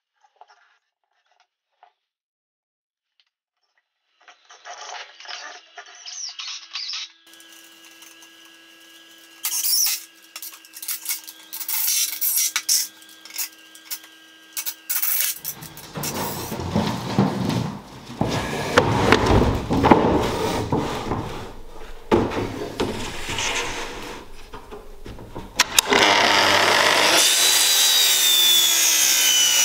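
Woodworking sounds: tools working wood in several short bouts with scraping and knocks. About 26 seconds in, a power tool starts and runs steadily and loudly with a changing whine.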